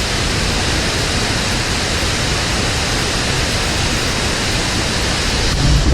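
Waterfall running high after heavy rain: a loud, steady rush of falling water. A low rumble joins near the end.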